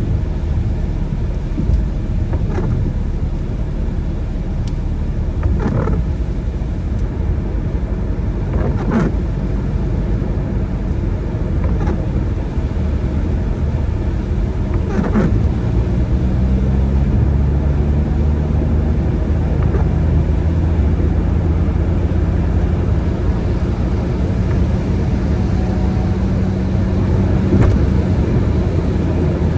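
A car driving on wet roads in the rain: steady road and engine rumble. About halfway through, a steady engine note comes up under the rumble. A faint short swish recurs every three seconds or so.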